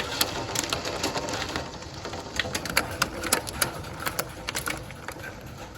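Hail hitting window glass: a rapid, irregular patter of sharp ticks over a steady hiss of rain, thinning out a little toward the end.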